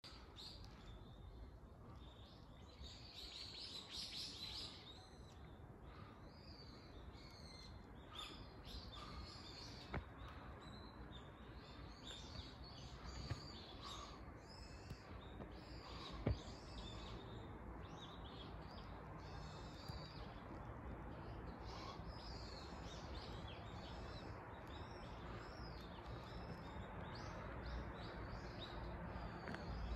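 Small birds chirping and calling over and over, faint against a steady background hiss, with two sharp clicks around ten and sixteen seconds in.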